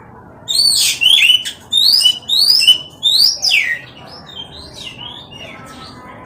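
Oriental magpie-robin (kacer) singing: a loud run of quick whistled notes that sweep up and down in pitch for about three seconds, then a few softer notes trailing off.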